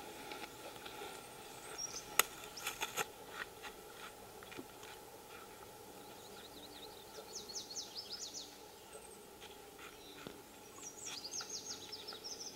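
Birds chirping over a faint steady outdoor hum, with runs of quick, high, falling chirps about seven seconds in and again near the end. A few sharp clicks come about two to three seconds in.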